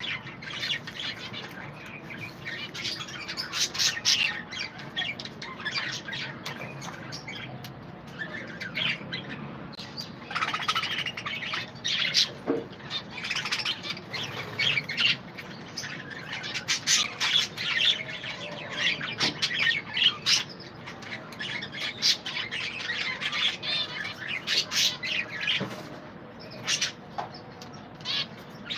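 A flock of budgerigars chattering: many overlapping chirps, warbles and squawks, busy and continuous.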